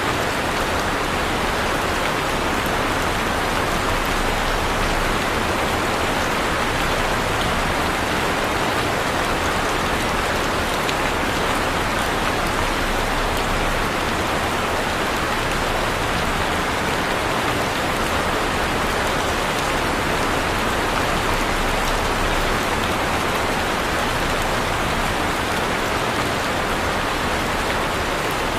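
Heavy rain falling steadily, an even, constant hiss of rain on surfaces with no thunder or other events.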